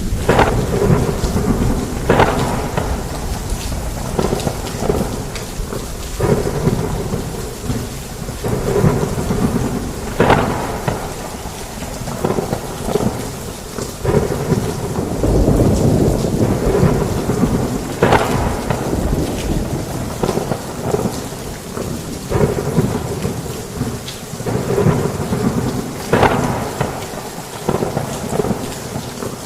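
Heavy rain pouring steadily under continuous rolling thunder, with a sharper crack of thunder about every eight seconds.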